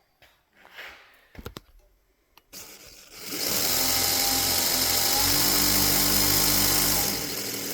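A small knife-sharpening belt grinder powered by a 3/4 hp DC sewing-machine motor: a few clicks, then the motor spins up about three seconds in and runs steadily with the abrasive belt hissing. Near the end the hiss falls away and the motor runs on more quietly.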